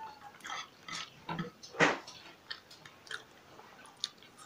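Close-up chewing and biting of food, with several crisp crunches of raw red radish, the loudest about two seconds in.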